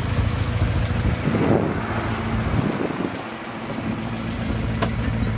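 Car engine idling with a steady low hum, which grows quieter about three seconds in.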